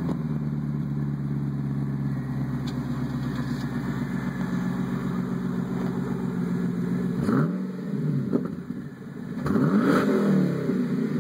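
2008 Pontiac G8 GT's 6.0-litre V8 idling steadily just after a cold start, heard through a custom axle-back exhaust built on the Solo J-pipe design. About seven seconds in, and again about ten seconds in, the throttle is blipped, and each time the engine note rises and falls back to idle.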